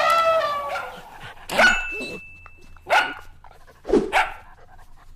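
A dog barking three times, single sharp barks about a second apart, after a long pitched animal call that falls in pitch and fades out in the first second.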